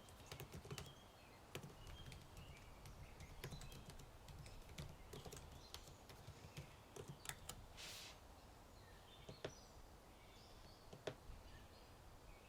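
Faint typing on a computer keyboard: irregular runs of keystrokes with short pauses. Birds chirp quietly over a low steady ambient rumble, with a brief hiss of noise about eight seconds in.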